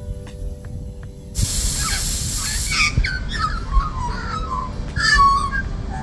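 Wild birds calling: a run of gliding, warbling notes from about two seconds in, ending with a louder call near the end, over a steady low rumble. A sharp high hiss sounds for about a second and a half, starting about one and a half seconds in.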